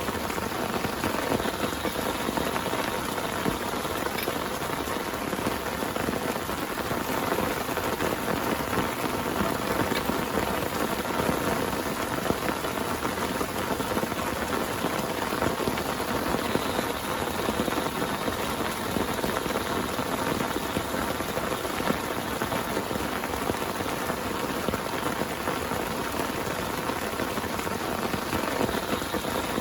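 Heavy rain falling steadily on a tent, a dense, even spatter of drops with no let-up and no thunder.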